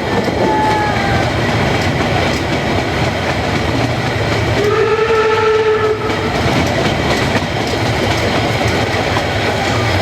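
Narrow-gauge steam train running, its wheels clattering over the rails, with the locomotive's steam whistle sounding once for just over a second about halfway through.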